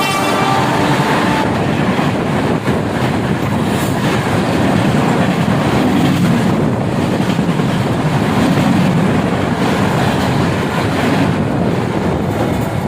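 Passenger train passing at speed, about 100 km/h, wheels clattering on the rails in a steady loud rush. A horn blast trails off in the first second, dropping in pitch as it goes.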